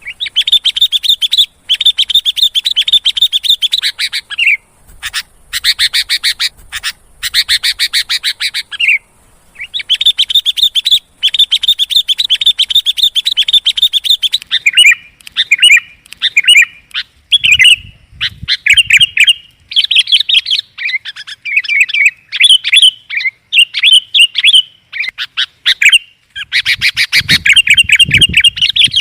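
Sooty-headed bulbul (kutilang) calls from a lure recording. Long runs of rapid repeated chattering notes are broken by brief pauses. In the middle they give way to shorter, separate whistled phrases, and a dense run of chatter returns near the end.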